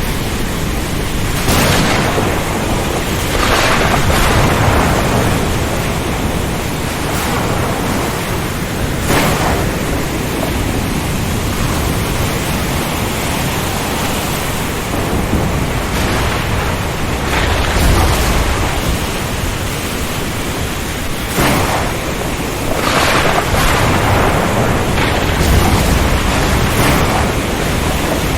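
Thunderstorm ambience over the sea: a steady roar of heavy rain and wind, with low rumbles of thunder swelling up several times and brief sharp cracks breaking through now and then.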